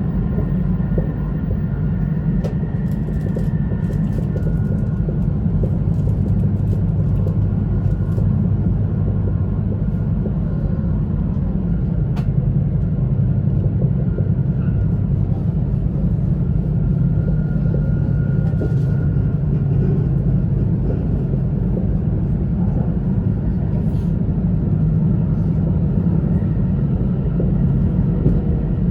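Steady running noise of an E2 series Shinkansen train heard from inside the passenger cabin: a constant low rumble with a faint high whine over it and a few light clicks.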